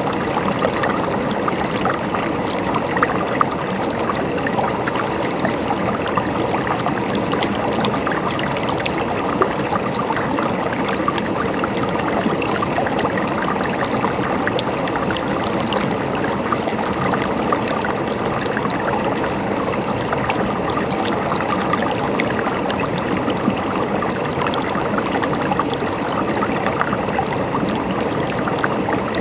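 A stream of water flowing and trickling steadily, with a constant rush and scattered small ticks of water.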